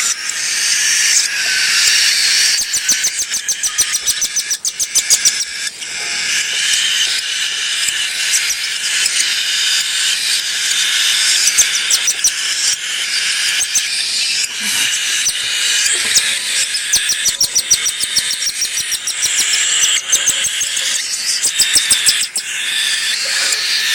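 Baby cockatiel chicks begging while being hand-fed: a continuous raspy, hissing chatter broken by runs of rapid pulses.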